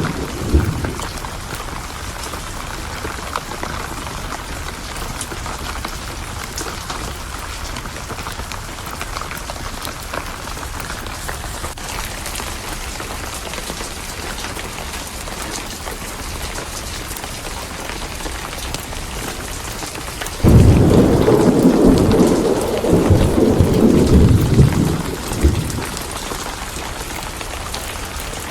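Steady heavy rain with thunder: a rumble dies away just after the start, and about two-thirds of the way through a sudden loud crack of thunder rolls on for several seconds before fading back into the rain.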